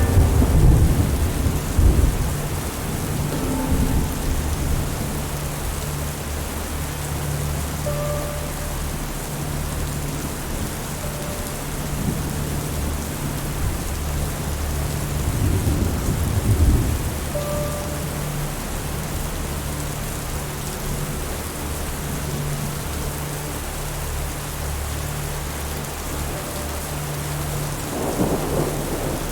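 Steady rain falling, with low rolls of thunder rumbling near the start, about halfway through and again near the end.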